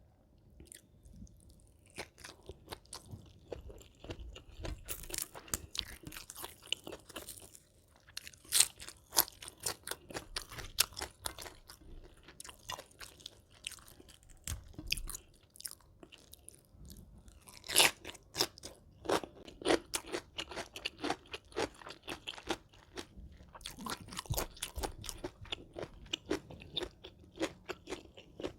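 Close-miked chewing and crunching of food in the mouth, coming in bouts of crisp crackles with brief pauses between mouthfuls; the loudest crunches come about a third of the way in and again near the middle.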